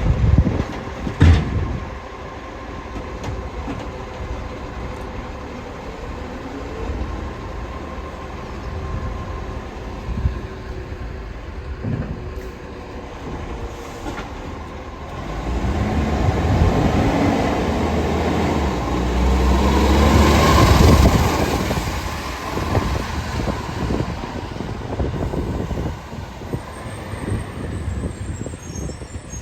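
Garbage truck working: heavy diesel rumble with sharp metallic knocks, and an engine that revs up for about six seconds in the middle before settling again.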